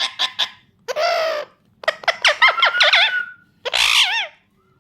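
Pet parakeet calling: a fast run of short chattering calls that stops about half a second in, then a harsh squawk, a quick string of sweeping whistled calls, and a last wavering screech about four seconds in.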